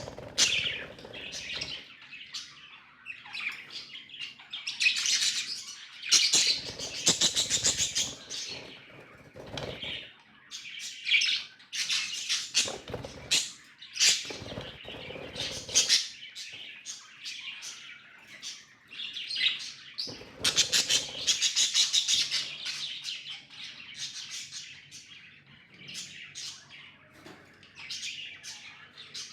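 Budgerigars chirping and warbling in quick, dense runs almost without pause, with a few brief bursts of noise reaching low.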